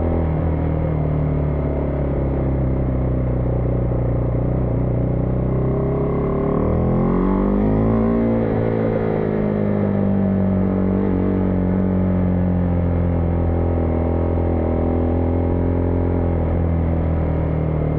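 Husqvarna Vitpilen 401's single-cylinder engine running under way. About six and a half seconds in, its pitch drops sharply, then climbs for a second or so as the bike accelerates, and settles back to a steady note that slowly sinks.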